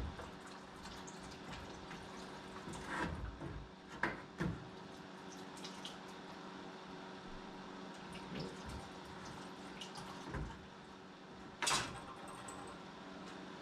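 Engine coolant dripping and trickling out of a car radiator as it is removed, with a few sharp knocks, the loudest near the end, over a steady low hum.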